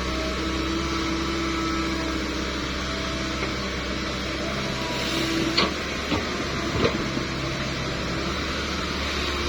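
An engine running steadily, with a few short knocks about halfway through.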